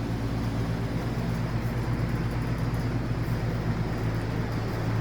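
Steady low mechanical hum with a constant hiss of shop background noise from running equipment, unchanging throughout.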